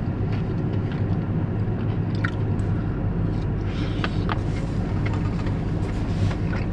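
A steady low mechanical hum, with a few light clicks and quiet chewing as freshly cooked smallmouth bass is eaten.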